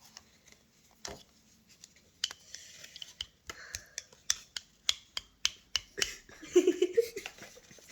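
Scissors snipping, a run of sharp irregular clicks about two to three a second, with a short burst of voice near the end.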